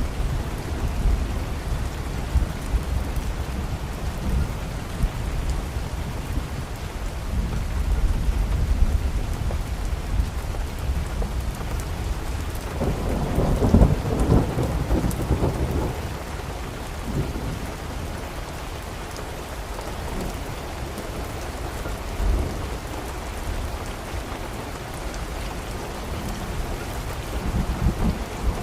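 Steady rain with low, rolling thunder; a louder roll of thunder swells about halfway through and fades over a few seconds.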